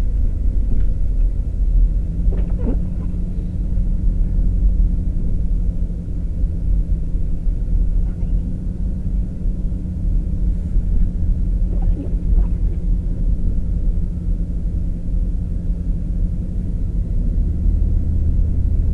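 Engine and road noise of a car driving on snowy roads, heard from inside the cabin: a steady low rumble with a constant hum.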